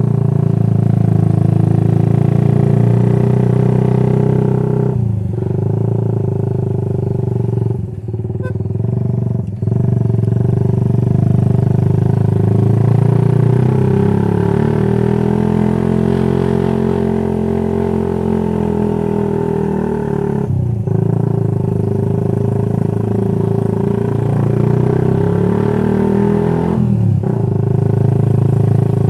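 Motorcycle with an aftermarket racing exhaust, heard while riding: a loud, steady exhaust note that rises and falls with the throttle, broken by several brief dips of the kind made by gear changes or lifting off the throttle.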